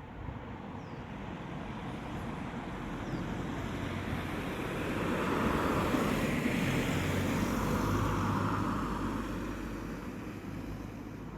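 A vehicle passing at a distance: a noise without clear tones that swells to a peak about two-thirds of the way through, then fades, over wind noise on the microphone.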